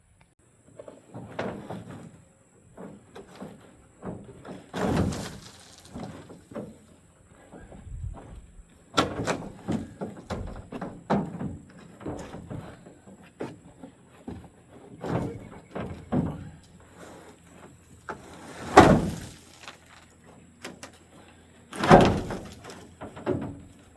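A drop-in plastic bed liner being worked loose and dragged out of a Ford pickup's bed: a string of irregular hollow thunks, knocks and scrapes, with a few louder bangs, two of the loudest near the end.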